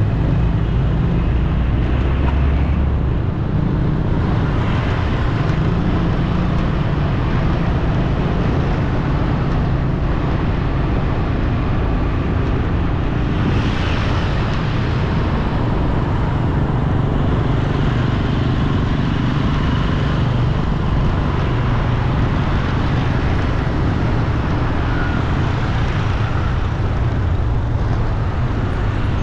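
Steady road traffic noise with a continuous low engine rumble, swelling slightly about halfway through.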